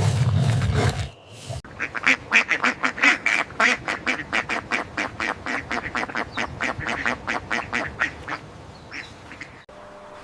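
An animal calling in a rapid run of short, sharp notes, about four a second, for some eight seconds. Just before it, a low growling sound ends about a second in.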